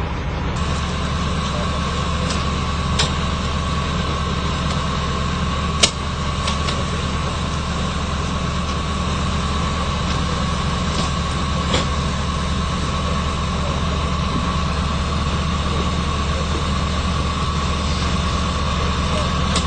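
A car engine idling steadily, with a few sharp clicks; the loudest click comes about six seconds in.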